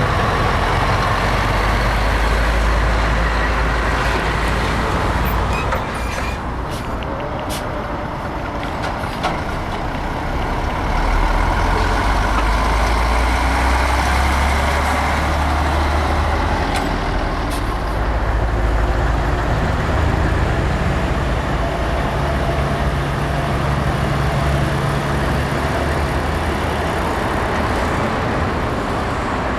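Heavy diesel trucks running close by, a continuous deep engine rumble that eases off briefly and builds again, with a steady engine drone in the second half. A few short sharp clicks come through in the quieter stretch.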